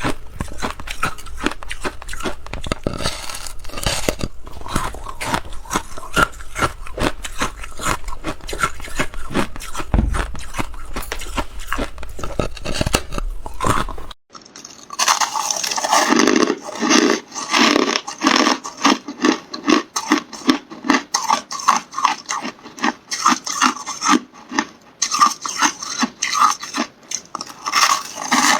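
Close-miked crunching and chewing of hard ice, a dense run of sharp cracks. Just after halfway the sound changes abruptly to steadier rhythmic chewing, a few strokes a second.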